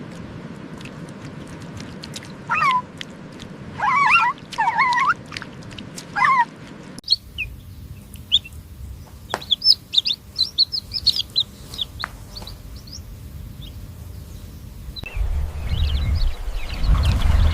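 Poultry calling, in three short clips joined by abrupt cuts. First come a few separate clucking calls, then a run of rapid high-pitched peeping chirps, and near the end more chirps over a low rumble.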